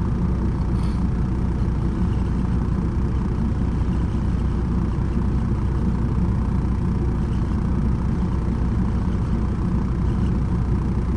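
Semi-truck diesel engine idling steadily, a constant low rumble with no revving.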